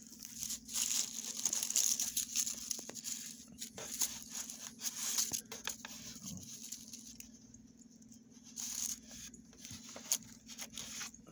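Irregular rustling, crinkling and scraping as the parts of an insulated beehive are handled, with a faint steady low hum underneath.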